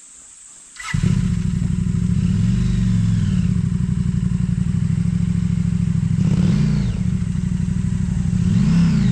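Motorcycle engine starting up suddenly about a second in, then running with three brief revs of the throttle.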